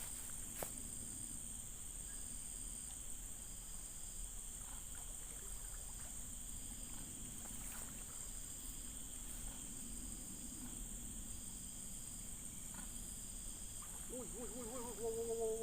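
Steady high-pitched insect drone from riverside insects, with a shorter insect chirp repeating about once a second. Near the end a short wavering, warbling pitched sound comes in.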